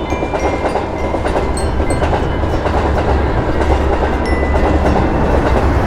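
A train passing over a railroad crossing: a steady, loud rumble of wheels on the rails.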